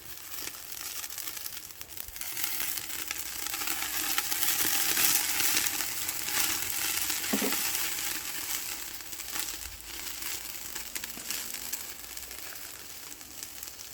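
Marinated pork belly sizzling on a grill over a wood fire, with fine crackling throughout. The sizzle swells over the first few seconds and then slowly eases.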